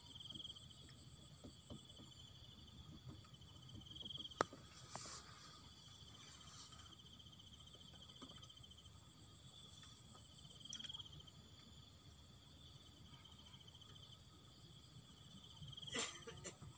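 Insects trilling steadily in a fast pulsed buzz at two high pitches, dropping out briefly twice. One sharp click about four seconds in, and a couple of softer knocks near the end.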